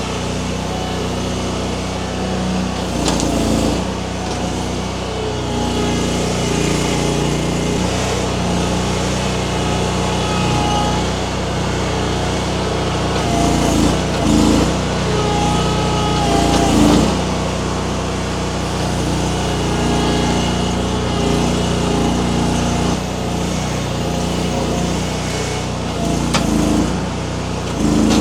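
Baumalight mini skid steer's engine running steadily, with several brief louder surges as it works under load with the grapple pulling small sumac.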